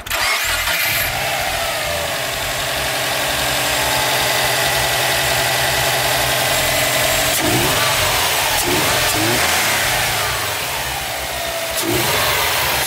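Subaru WRX turbocharged flat-four engine, with a Cobb Stage 1 tune and an aftermarket air intake and exhaust, running at a steady idle. It is blipped through several short revs in the second half, heard mainly for the new intake's sound.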